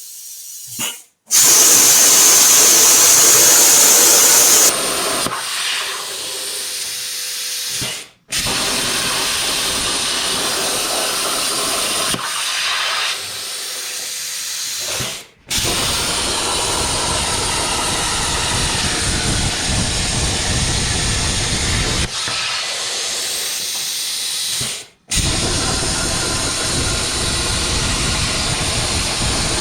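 CNC plasma torch cutting metal, a loud steady hiss of the arc and cutting air. The hiss drops out abruptly three times and comes back, and it is loudest and highest for a few seconds just after the start.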